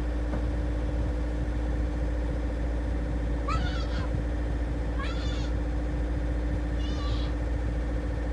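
Boat engine running steadily with a constant hum. Three short high calls, each sweeping quickly in pitch, sound over it about three and a half, five and seven seconds in.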